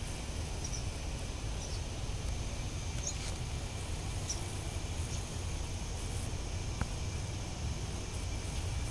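Short high chirps from small birds, spaced every second or so over a steady low outdoor rumble and a faint steady high whine. A single click comes about seven seconds in.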